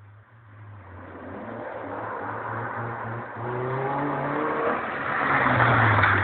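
Proton Compact car accelerating hard, its engine note rising and getting steadily louder, with short dips in level about three and five seconds in.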